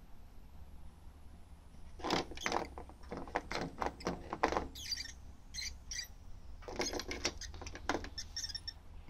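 Motion-activated toy bird chirping from its small speaker: quick chirps in a few bursts, beginning about two seconds in and pausing briefly in between, set off by movement in front of its sensor.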